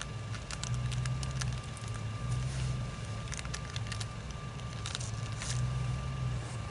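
EMD diesel locomotive engine running at low throttle, a low pulsing rumble, with scattered faint clicks and crackles over it.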